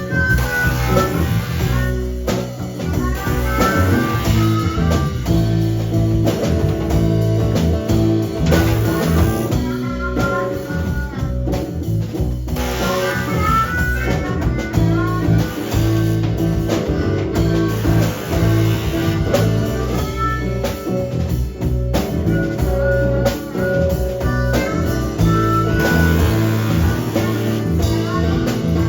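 Live blues band playing an instrumental passage, with guitar and drum kit.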